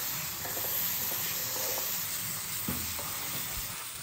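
Chickpea paste sizzling in hot oil in a nonstick kadhai while a wooden spatula stirs and scrapes it through the pan, with a few soft strokes over the steady hiss.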